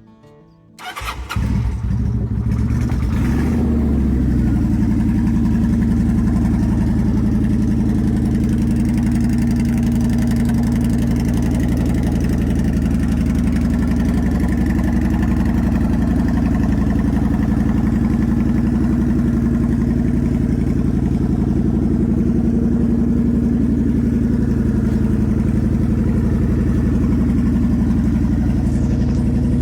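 Kawasaki Vulcan 900's V-twin engine starting about a second in, then idling steadily.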